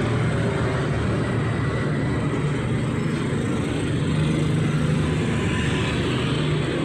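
Street traffic: a steady engine drone from passing motor vehicles, with a low hum over the road noise.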